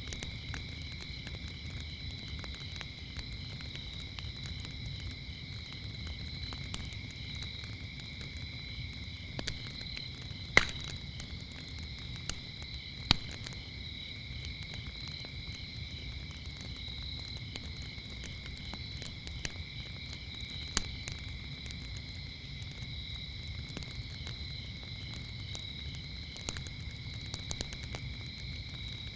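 Wood fire crackling with scattered sharp pops, the two loudest about ten and thirteen seconds in, over a low steady rumble, while crickets chirp in a continuous high chorus.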